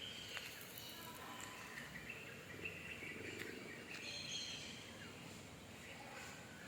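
Birds chirping, many short calls scattered over a faint steady hiss of outdoor background noise.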